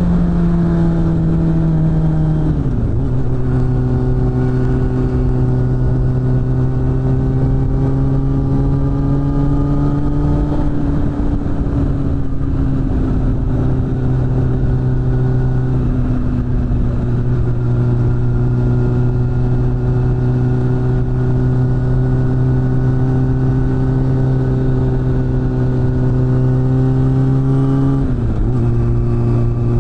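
Suzuki GSF600 Bandit's inline-four engine through a BOS aftermarket exhaust, running under load while riding. Its note holds fairly steady with slow drifts, and drops quickly twice as it shifts up a gear: about two and a half seconds in and near the end.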